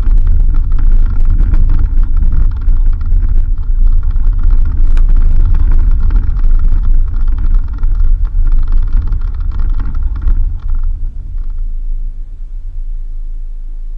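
Suzuki Jimny driving on a dirt road: a loud, uneven low rumble with scattered knocks, easing about eleven seconds in to a steadier, quieter low hum.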